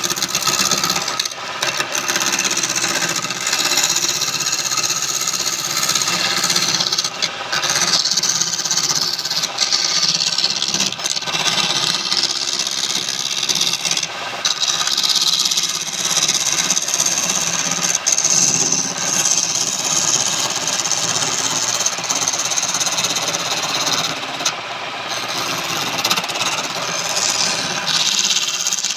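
Wood lathe running with a tool held against the spinning wood: a steady hissing cut that eases off briefly a few times.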